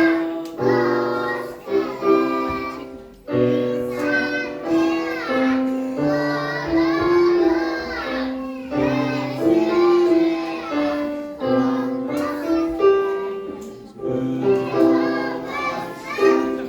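A group of young children singing a song together, with backing music that has sustained notes and a bass line.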